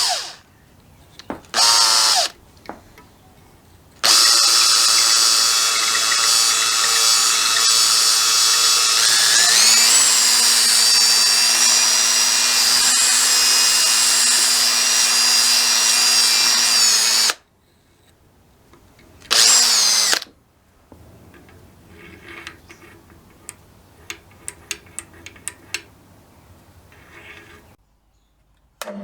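A handheld electric power tool, drill-like, running in bursts: a short run, then a long run whose speed steps up partway through, then another short run. Light clicks and taps of small parts being handled follow.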